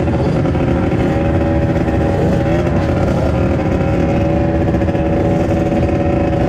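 Dirt bike engine running at a steady, nearly unchanging pitch, with a brief wobble in pitch about two and a half seconds in, over a heavy low rumble.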